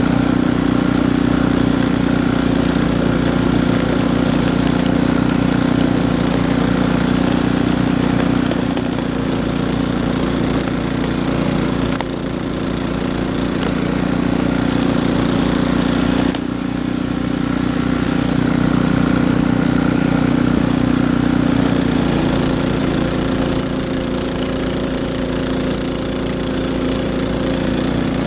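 Snowblower engine running steadily, with a brief dip in level twice around the middle.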